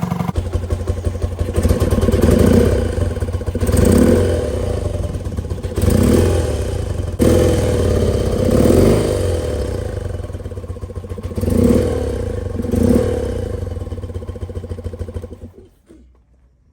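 1977 BMW R60/7's air-cooled flat-twin engine running through its exhaust, blipped about seven times, then cut off near the end.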